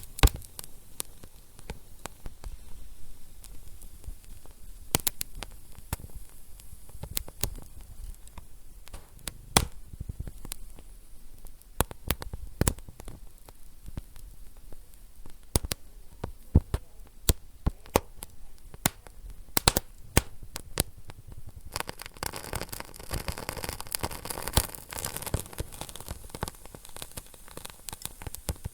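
Wood fire burning in a fireplace, with irregular sharp pops and crackles over a low hiss. The hiss thickens about three quarters of the way in.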